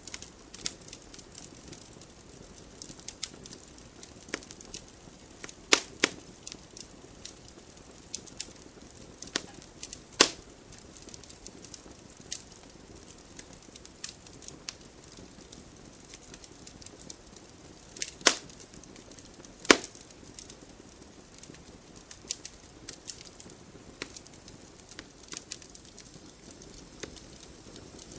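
Wood fire burning in a fireplace: a soft steady hiss with scattered small crackles and a few loud sharp pops from the burning logs.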